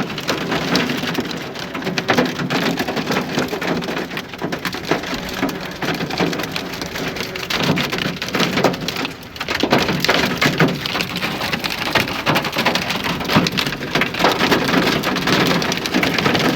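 Hail and heavy rain pelting down, a dense steady patter of hits with a short lull about nine seconds in.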